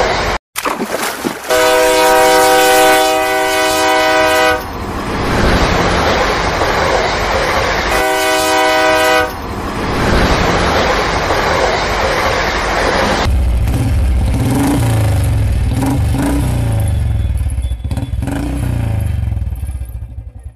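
Train sounds: a train horn blows twice, for about three seconds starting a second and a half in and again briefly around eight seconds, over the steady rumble of a running train. From about 13 seconds a low, throbbing motorbike-like engine sound takes over.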